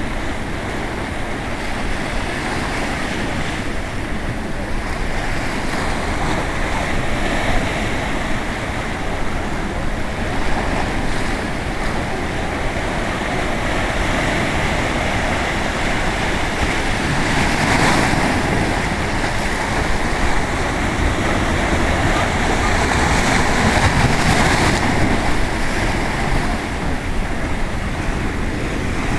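Ocean surf breaking and washing in continuously, with louder surges twice in the second half, and wind buffeting the microphone.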